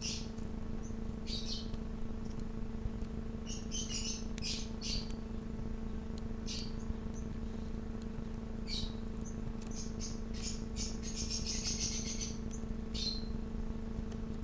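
Small songbirds chirping: short, high chirps coming in scattered bursts, busiest toward the last few seconds. A steady low hum runs underneath.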